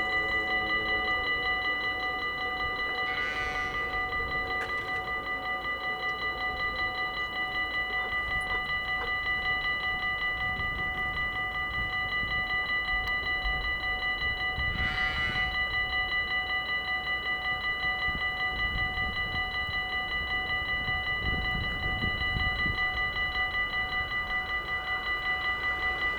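Electronic warning bells of a Dutch railway level crossing ringing steadily and rapidly while the crossing is closed for an approaching train. A brief high chirp sounds twice, about 3 s and 15 s in, and the train's rumble starts to rise at the very end.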